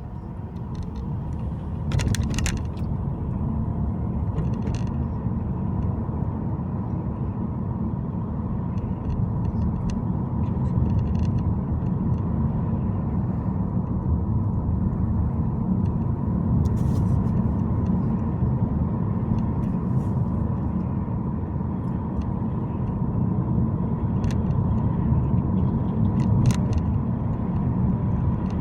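Car on the move: steady low road-and-engine rumble that swells over the first couple of seconds, with a faint steady hum and a few sharp clicks or knocks, one about two seconds in and another near the end.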